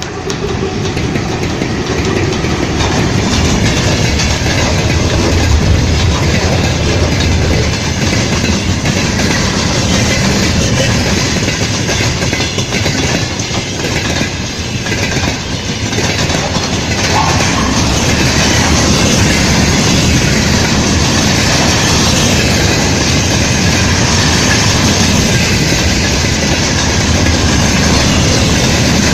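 A train running on rails, its wheels clacking over the rail joints; the noise builds up over the first couple of seconds and then stays loud and steady.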